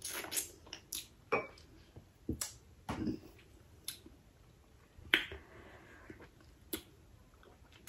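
Eating crab legs: mouth sounds of sucking and chewing the meat, scattered short wet clicks and smacks about once a second.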